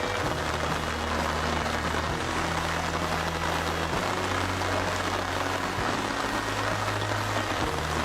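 Steady heavy rain hissing down, under low sustained background music notes that change about every two seconds.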